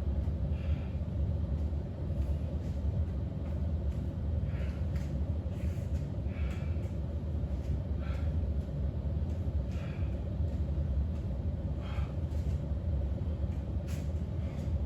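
Steady low-pitched rumble with faint short, soft noises every second or two.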